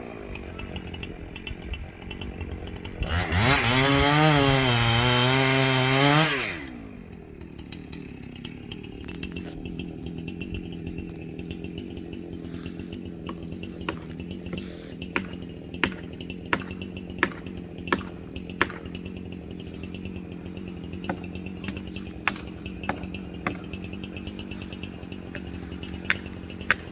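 Two-stroke chainsaw running: it idles, then is throttled up into wood for about three seconds, its pitch wavering under load, before dropping back to a steady idle. Over the idle come irregular sharp clicks or snaps in the second half.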